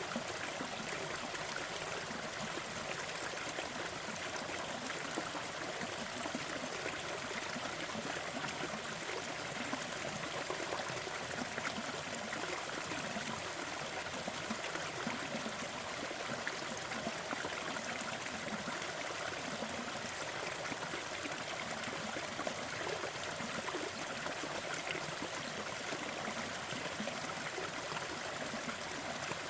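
Waterfall: falling and splashing water making a steady rushing hiss, even throughout, with small splashes flickering through it.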